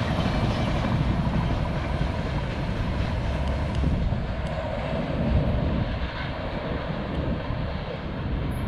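Freight train rolling away after passing, its low rumble slowly fading as the last tank cars recede.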